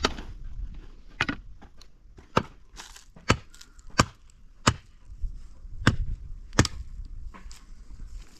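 Repeated chopping blows: about eight sharp strikes, spaced unevenly around a second apart.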